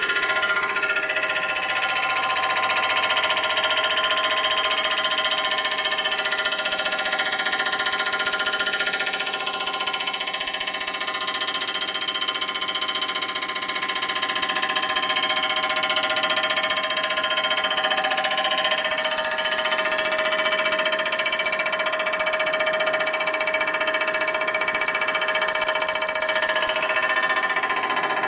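Metal-cutting machine tool running steadily through a light cut, taken to true up a surface that is not flat. The sound is a steady multi-pitched whine over noisy cutting.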